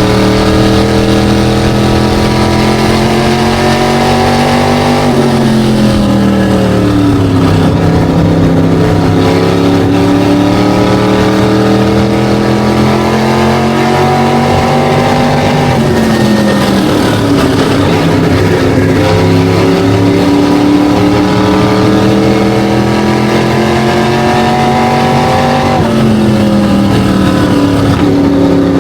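SK Light modified race car's engine at speed, lapping: its pitch climbs steadily for several seconds under full throttle, then falls quickly as the throttle is lifted, three times over.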